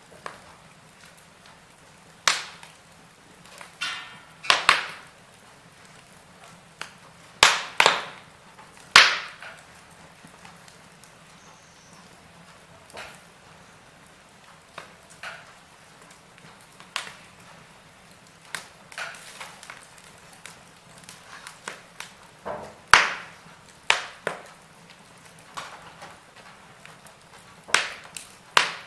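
Wood fire crackling, with irregular sharp pops of varying loudness over a soft steady hiss; the loudest cracks come in a cluster in the first ten seconds and again a little past the middle.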